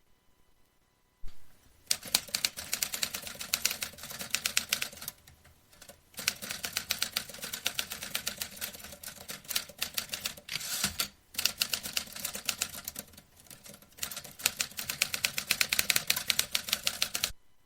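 Vintage typewriter being typed on: rapid runs of key strikes in several bursts with short pauses between them, starting a little over a second in and stopping just before the end.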